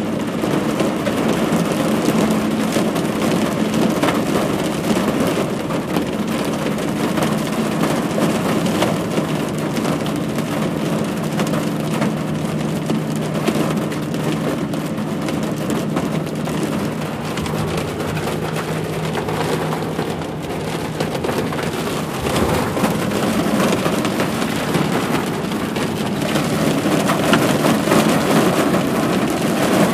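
Heavy rain hitting a car's windshield and roof, heard from inside the moving car as a dense, loud, steady patter. A low steady hum of the car runs underneath it and drops away about two-thirds of the way through.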